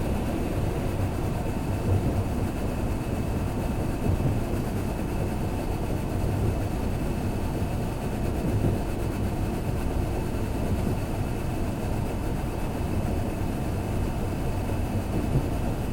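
Kintetsu limited express train running at speed, heard from inside the passenger car: a steady low rumble of wheels on rails with small irregular bumps.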